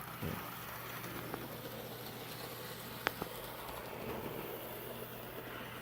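N scale EMD F59PHI model diesel locomotive running on the layout track: a steady low hum with wheel-on-rail noise and a few light clicks, the sharpest about three seconds in.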